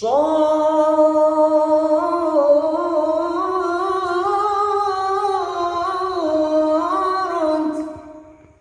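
A solo voice singing one long, ornamented melismatic phrase of an Arabic devotional song (qasida) with no words, held for about eight seconds and fading out near the end.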